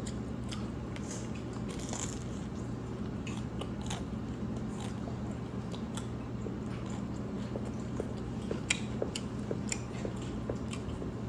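Close-up eating sounds: chewing and biting beef noodles, with scattered short wet clicks and smacks from the mouth.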